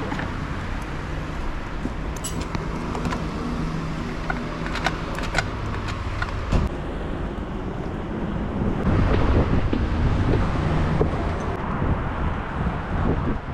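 Kawasaki ZX-6R inline-four running through a Leo Vince SBK titanium exhaust, holding a steady note at first, then louder from about nine seconds in.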